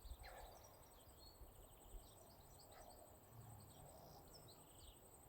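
Near silence outdoors: a faint, steady, high-pitched insect trill with scattered faint bird chirps.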